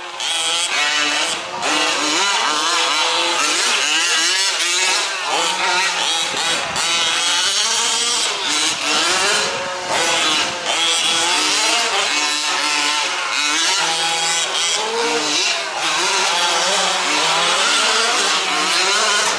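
Several 1/5-scale RC off-road trucks' small two-stroke petrol engines racing together, their overlapping buzzing pitches rising and falling as they rev up and ease off.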